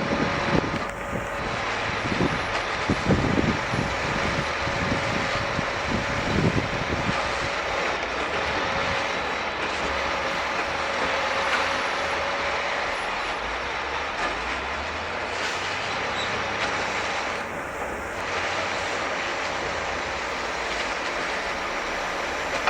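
Scania G440 timber truck running steadily while unloading timber, with a thin steady whine that stops about halfway and a few low knocks in the first several seconds.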